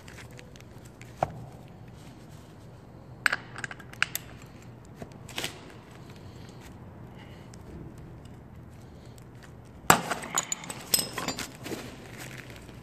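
Hard plastic oil filter housing being worked apart by hand and with tools: scattered sharp clicks and knocks, then a dense run of clicking and cracking about ten seconds in as the plastic starts to break.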